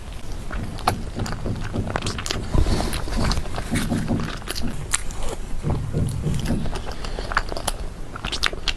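Close-miked chewing of a white-peach snow-skin mooncake: a run of wet mouth clicks and smacks over soft, sticky chewing noise.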